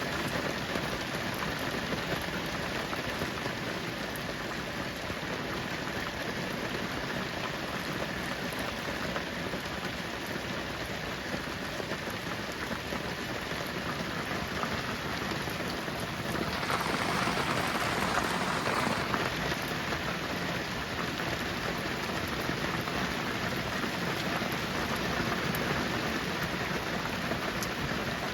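Heavy rain falling steadily, with a brief louder, sharper surge about two-thirds of the way through.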